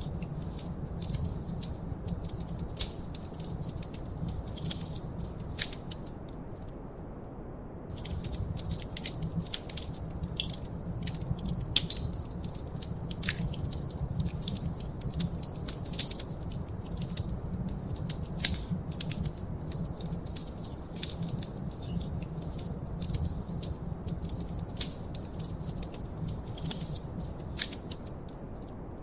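Wood fire crackling in a fireplace: irregular sharp pops and snaps over a steady low rumble of the flames. The popping drops out for about a second around seven seconds in and again just before the end.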